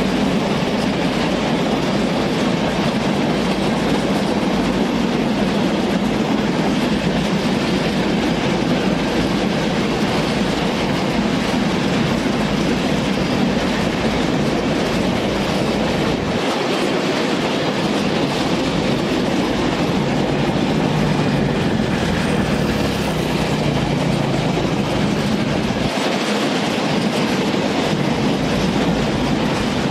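Long freight train of open-top gondola wagons rolling past, a steady, unbroken noise of wheels running on the rails.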